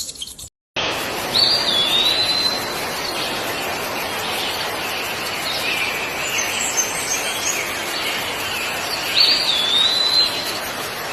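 Steady rushing noise with a short bird-like whistling call that dips then levels off, heard twice about eight seconds apart, and fainter chirps between them.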